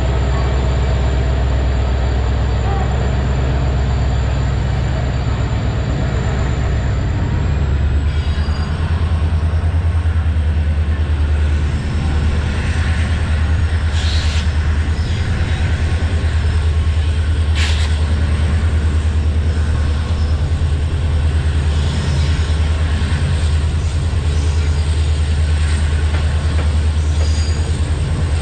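Passenger train running along the track, heard from inside the coach: a steady heavy rumble of wheels on rail, with a thin high whine that steps up slightly about eight seconds in and two sharp knocks in the middle.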